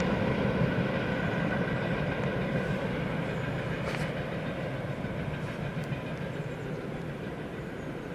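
Train hauled by a VL11.8 electric locomotive rolling along the track, a steady rail rumble that fades evenly as it moves away.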